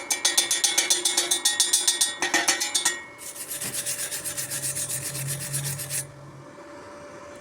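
Rapid back-and-forth rasping strokes of a hand tool on metal, about six a second: a louder run for about three seconds, a short pause, then a softer run that stops abruptly about six seconds in.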